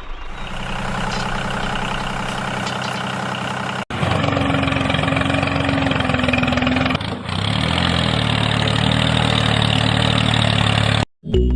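A motor running steadily, heard in three cut-together stretches: it changes abruptly about 4 and 7 seconds in and stops suddenly shortly before the end.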